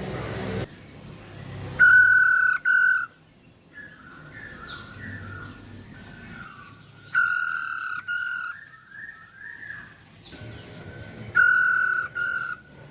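Female masked laughingthrush (poksay Hongkong) calling: three loud, harsh double calls about four to five seconds apart, with softer twittering chirps between them.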